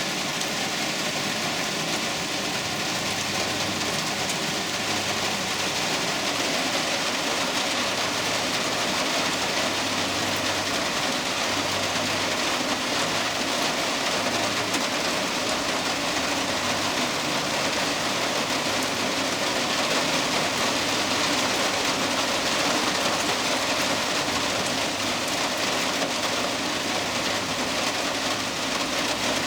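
Heavy rain falling steadily, a dense even hiss, with a faint low hum coming and going underneath.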